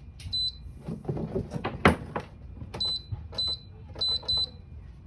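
Short electronic beeps from a General Electric window air conditioner's control panel, about five single beeps, with handling clicks and a sharp click about two seconds in as the unit is set up.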